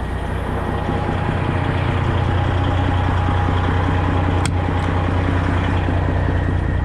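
Semi truck's diesel engine idling steadily, with a single sharp click about four and a half seconds in.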